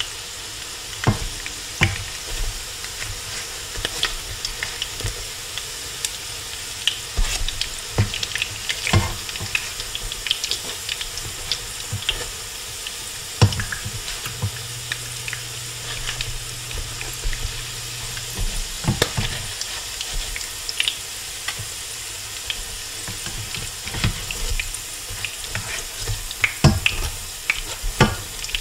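Salmon patties sizzling and crackling in hot oil in a cast-iron skillet, with sharp knocks and scrapes of a silicone spatula and a slotted turner against the pan as the patties are turned.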